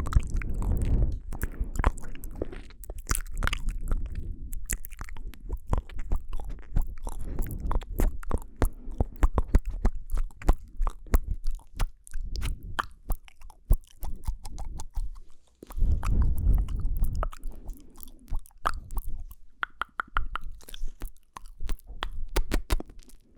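Close-microphone ASMR mouth sounds: a rapid, continuous stream of wet clicks and smacks. There are heavier low rumbling stretches at the start and again about two-thirds of the way through.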